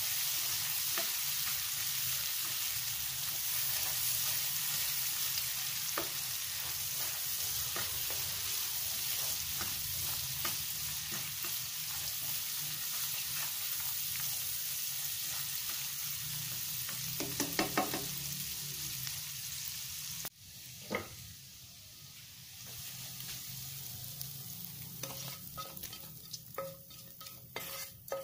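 Chopped chilies and shallots sizzling in hot oil in a nonstick frying pan while a silicone spatula stirs, with a few taps of the spatula on the pan. The sizzle cuts off suddenly about two-thirds of the way through. A knock and then scattered scraping clinks follow as the sambal is scraped from the pan into a cobek mortar bowl.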